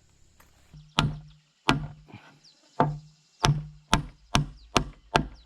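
A series of eight heavy strikes, coming closer together toward the end, each followed by a short low ring.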